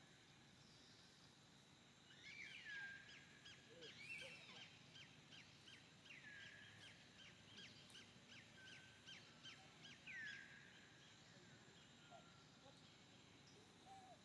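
A bird calling: a quick series of short high notes, about four a second, broken by a few downward-sweeping whistles, starting about two seconds in and stopping near ten seconds.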